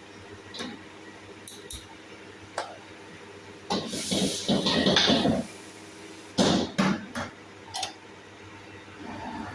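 Cookware and utensils knocking and clattering in short bursts, with a longer noisy stretch about four seconds in and a few sharp strikes a couple of seconds later.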